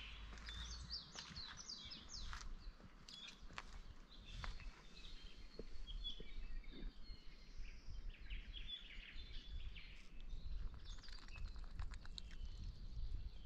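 Birds chirping: quick, high twitters and short down-sweeping notes in clusters that come and go, over a faint low rumble.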